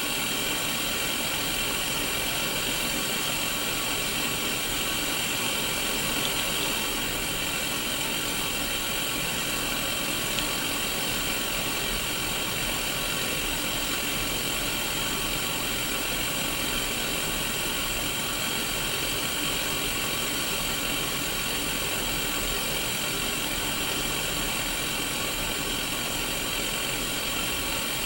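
Steady static hiss from an untuned Sony Mega Watchman black-and-white mini CRT television, holding at an even level throughout.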